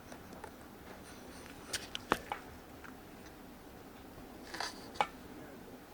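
A few light, sharp clicks and taps in a quiet room: a small cluster about two seconds in and another near the end.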